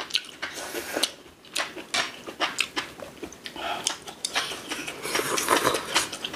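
Close-up eating sounds: people chewing and smacking on seasoned cockles, with many short wet clicks.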